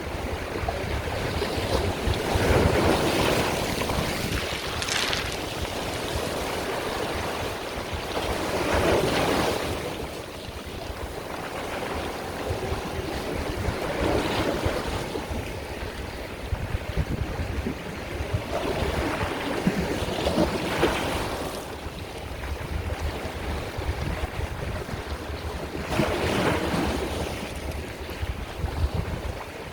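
Sea waves breaking in slow surges about every five to six seconds, each swelling and then washing back into a steady hiss.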